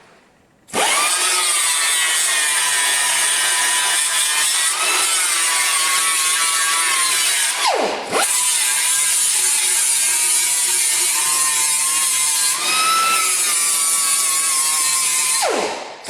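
Abrasive disc grinder grinding steel weld beads flush, starting up with a rising whine about a second in and then running steadily under load. It winds down briefly and picks up again twice, around the middle and near the end, as the trigger is released and squeezed again.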